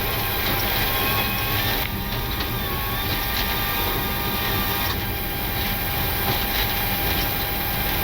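Boeing 737-800 flight deck during the landing rollout: a steady low rumble of the wheels on the runway and the engines as the jet slows below 80 knots.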